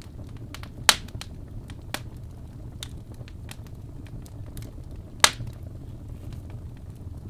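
Fireplace crackling: a low steady rumble with scattered irregular pops, two of them much louder, about a second in and a little after five seconds.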